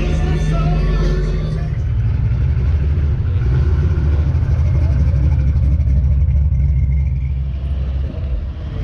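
Car engine running close by: a loud, low, pulsing rumble. Music fades out in the first second or so.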